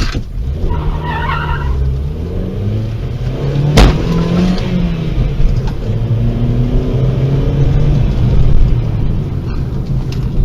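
Car engine running and rising and falling in pitch as it revs, with a brief high squeal about a second in and a single sharp bang just before four seconds.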